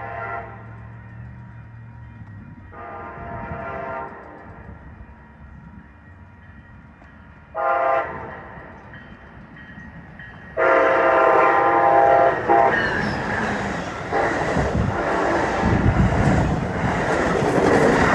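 Amtrak Surfliner led by a Siemens SC-44 locomotive sounding its horn in the grade-crossing signal: long, long, short, long. The last blast runs into the loud rumble and wheel noise of the train passing.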